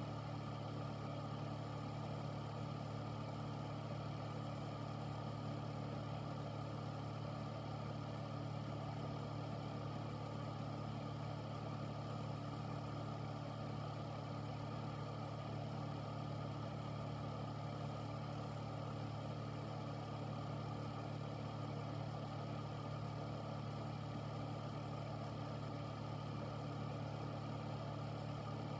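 Air filter running steadily: a constant fan hum with a low drone and an even whoosh of moving air.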